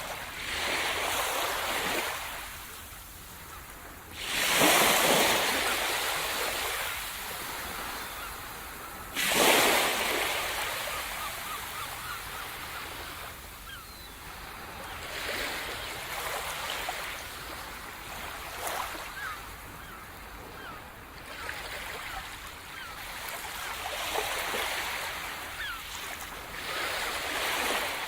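Sea surf washing onto a shore. Two loud breakers crash about four and nine seconds in, then smaller waves wash in and out.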